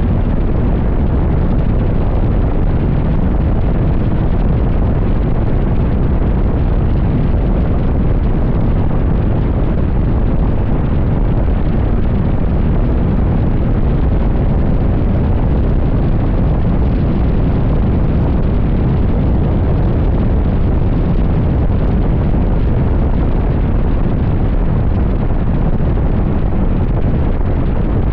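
Wind buffeting the microphone of a motorcycle riding at highway speed: a loud, steady, low rumble of rushing air.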